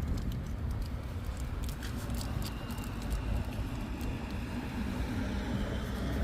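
Steady low rumble of a car's engine and tyres on the road, heard from inside the moving car, with a few faint clicks.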